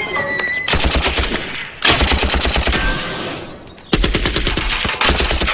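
Machine gun firing in rapid bursts, about four of them with short breaks between.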